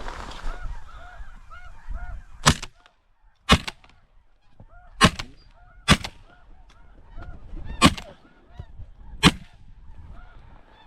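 Snow geese honking in the first couple of seconds, then six loud shotgun shots spaced one to two seconds apart at geese overhead.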